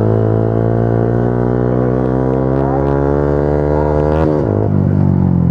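Motorcycle engine idling steadily close by, with a short dip in pitch about four seconds in.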